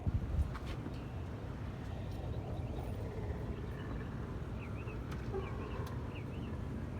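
Small birds chirping, a quick run of short high chirps in the second half, over a steady low rumble of wind and handling noise on the microphone.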